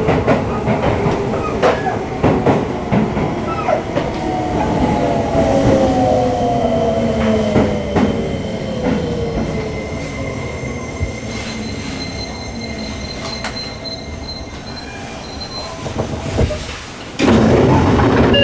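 Seibu 20000 series electric train heard from inside the carriage as it brakes: the motor whine falls steadily in pitch as the train slows, over wheel rumble with some wheel squeal and clicking over rail joints, and the sound fades as it draws to a stop. A sudden, louder rush of noise comes near the end.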